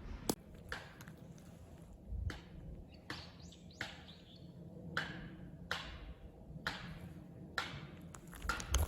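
A series of sharp knocks at an uneven pace, roughly one a second, each dying away quickly.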